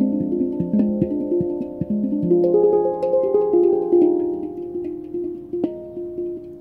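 Pantheon Halo handpan in the La Sirena tuning played by hand: struck steel notes ringing and overlapping in a slow, flowing melody, with a sharper strike about five and a half seconds in.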